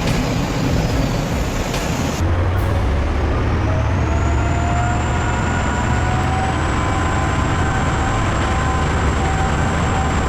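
Heavy truck's diesel engine running hard with a deep rumble. The sound changes abruptly about two seconds in, and after that a steady whine rises a little, then holds.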